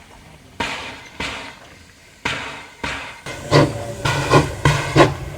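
Narrow-gauge steam locomotive pulling away: separate exhaust beats about half a second apart, coming faster and louder from about three and a half seconds in as it gathers speed.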